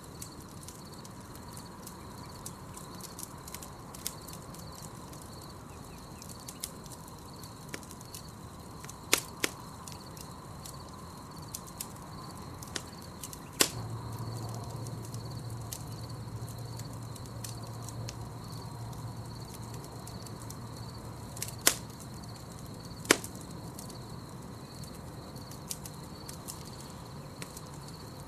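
Campfire crackling, with frequent small ticks and a few loud sharp pops of burning wood. Under it runs a steady, pulsing high chirp of night insects.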